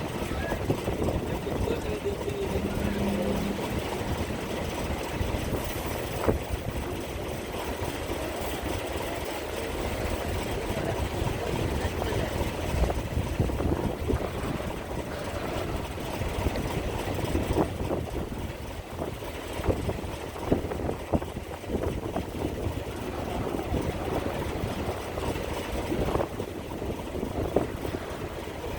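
Steady low rumble of a ferry's engines running at idle in port. Wind buffets the microphone and there are occasional light knocks.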